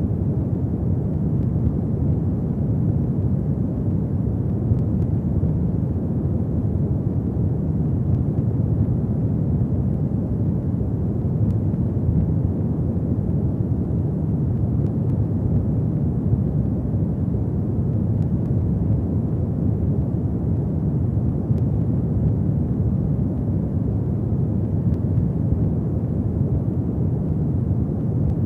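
Fireplace ambience: a steady low rumble of burning flames with a few faint crackles.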